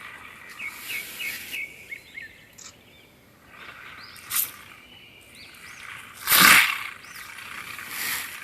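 Small birds chirping in short repeated notes, with a few hissing whooshes rising over them; the loudest whoosh comes about six and a half seconds in.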